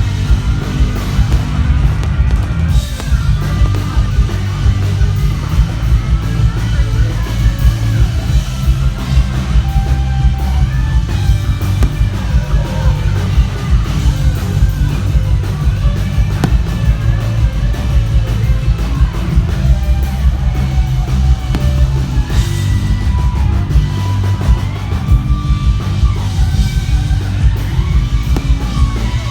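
Live rock band playing loud, with drums, electric guitar, heavy bass and a singer's voice carrying the melody.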